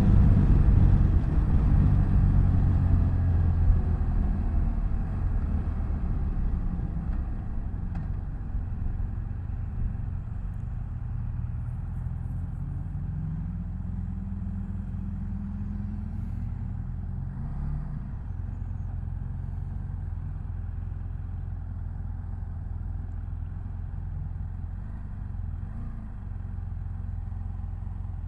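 BMW F800GS parallel-twin motorcycle engine under way with wind rumble. The engine note falls and fades over the first several seconds as the bike slows. It rises again for a few seconds in the middle, then settles into a steady cruise.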